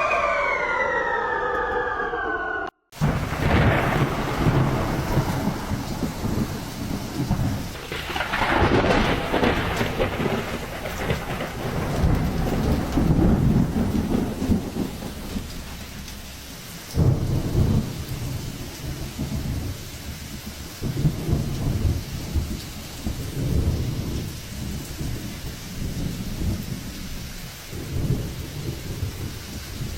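A siren wailing with a falling pitch, cut off abruptly about three seconds in, then steady rain with repeated rolling thunder rumbles.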